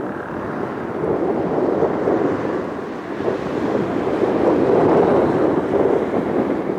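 Airplane passing overhead with a loud, steady rumbling engine noise that swells to a peak about five seconds in and eases off near the end.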